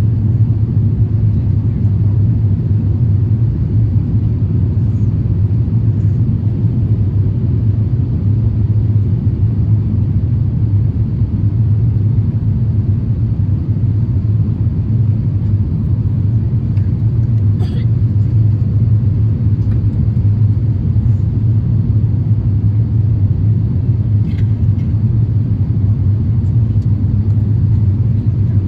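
Steady low rumble of an Airbus A350-1000 heard from inside the cabin, with two faint clicks partway through.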